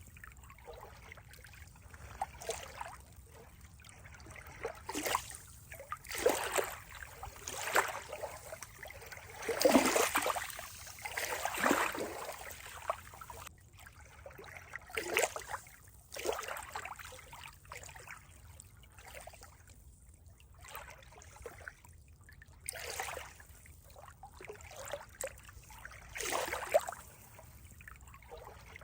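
Water trickling and splashing in uneven surges every second or two, loudest about ten to twelve seconds in.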